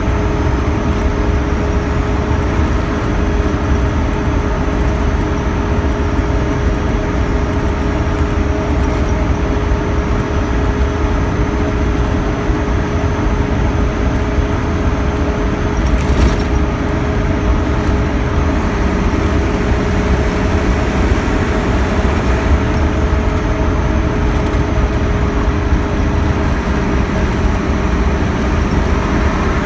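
Scania K112CL coach under way: a steady diesel engine drone and road noise, with a steady whine held at one pitch. There is a brief sharp noise about halfway through.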